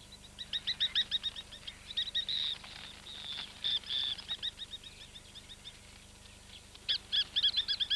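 Plovers calling in rapid runs of short, sharp, repeated notes, about six a second. The calls come in a burst over the first few seconds and start again near the end. They are alarm calls at marabou storks that have landed beside the nest.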